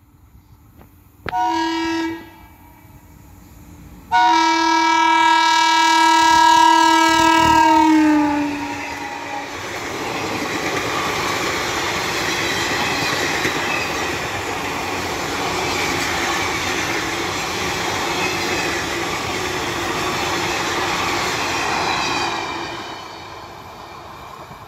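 Indian Railways express train passing close by. The locomotive's horn gives a short blast, then a long blast whose pitch drops as the locomotive goes past. The coaches then roll by with steady wheel-on-rail noise that fades near the end as the train recedes.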